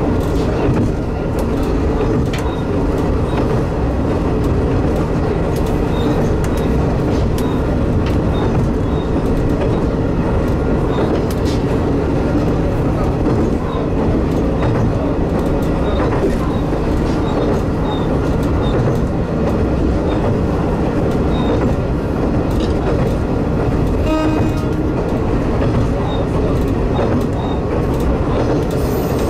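Diesel railcar running along the line, heard from inside the cab: a steady engine and rolling noise with light clicking of wheels over rail joints.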